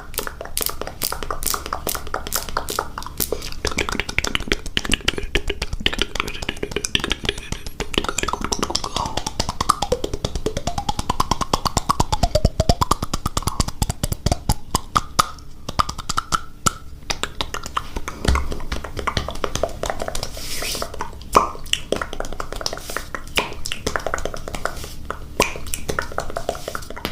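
ASMR mouth sounds: a fast, dense run of tongue and lip clicks and pops close to the microphone, with a wavering pitched tone for a few seconds near the middle.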